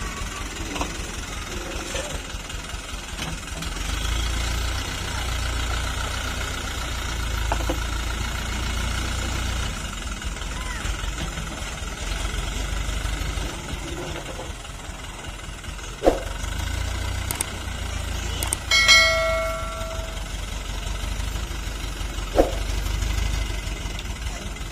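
Toyota Dyna dump truck's diesel engine running with a steady low rumble that swells and eases now and then. There are a couple of sharp knocks, and about three-quarters of the way through comes a brief high tone.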